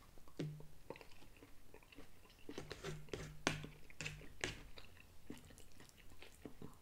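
A person chewing a mouthful of cooked green beans, with wet mouth clicks and smacks scattered throughout and a few brief low hums.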